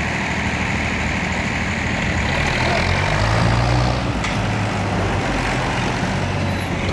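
Tractor diesel engine running steadily, its note swelling slightly about halfway through.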